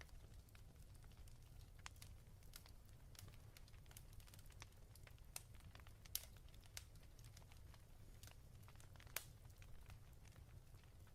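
Faint fireplace crackling: sparse, irregular pops of burning wood, two sharper ones about six and nine seconds in, over a low steady rumble.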